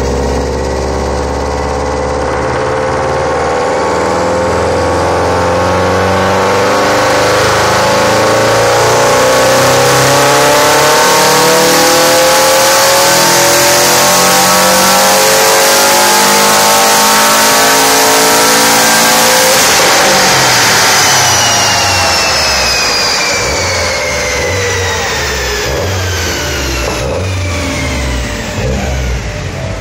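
Subaru WRX STI's turbocharged flat-four making a full-throttle pull on a chassis dynamometer, its note climbing steadily in pitch for about twenty seconds. Then it comes off the throttle and the engine and drivetrain wind down with a falling whine, over the steady rush of a large cooling fan.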